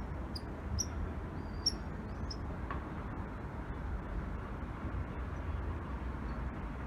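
A small bird chirping: a quick series of short, high chips about half a second apart that stop after about two and a half seconds. A steady low rumble underneath throughout.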